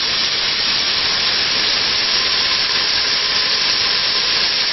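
A piece of beef roast searing in hot oil in a small pot, sizzling steadily as it browns.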